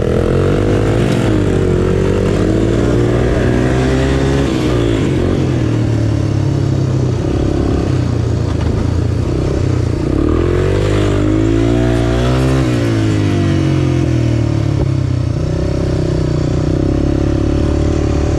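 Small single-cylinder off-road engine running and revved up and down repeatedly, its pitch climbing and falling twice in long sweeps.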